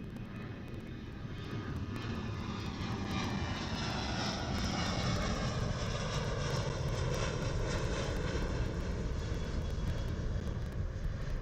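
Airliner's engines passing close by, growing louder, with whining tones that fall in pitch as it goes past.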